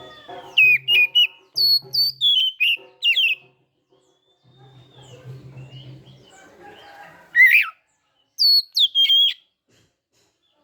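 Oriental magpie-robin (kacer) singing: loud whistled notes that glide sharply up and down, a quick run of them over the first few seconds, then after a pause two more short phrases. It is in full song ("gacor") after being misted.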